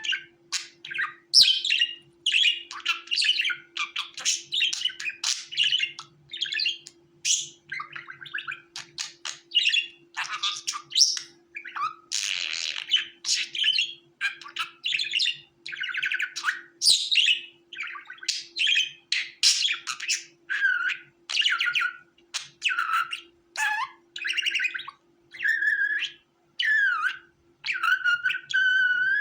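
Budgerigars chirping and warbling in a rapid, continuous run of short calls, with a faint steady hum underneath.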